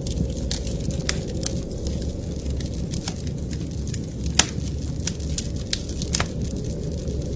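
Wood fire crackling in a fireplace: scattered sharp pops and snaps over a steady low rumble, with the loudest pop about halfway through.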